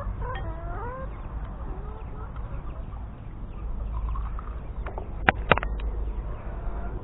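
Chickens clucking in the background, with short wavering calls mostly in the first second. Two sharp knocks in quick succession about five seconds in, over a steady low rumble.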